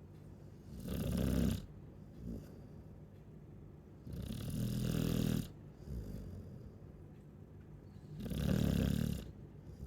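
Chow chow dog snoring in its sleep: three long snores about three and a half seconds apart, each a low buzz with a breathy hiss.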